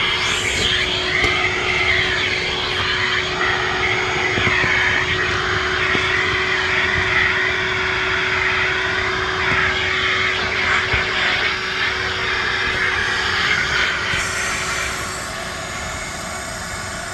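A small electric motor running steadily with a rush of air whose pitch wavers up and down, typical of a vacuum or blower; the rush changes tone about 14 seconds in.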